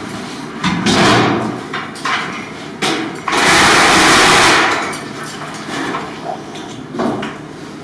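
Gypsum board edge being shaved down by hand: several short scraping strokes and one longer, louder stroke about three and a half seconds in, with some knocks. The board was cut a little too big, so the edge is being trimmed to fit.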